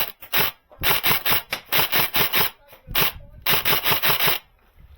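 Airsoft gun firing about a dozen sharp shots in quick, uneven succession, stopping about four and a half seconds in.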